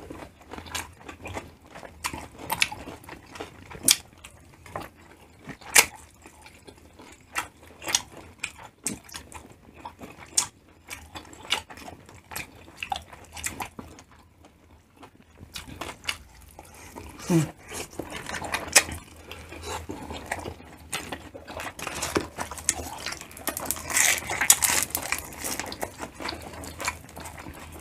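Close-miked chewing and biting of grilled tumbong skewers, heard as many short wet clicks, with a brief hummed 'mm' about two-thirds of the way in. In the last few seconds the clicks thicken into denser crunching of chicharon (fried pork rind).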